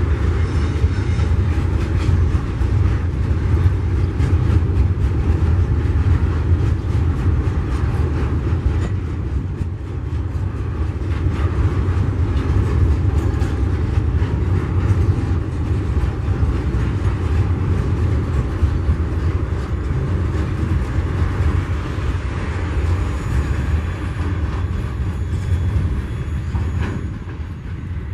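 TasRail log train rolling past: a steady, loud rumble of wagon wheels on the rails with a run of small clicks, fading near the end.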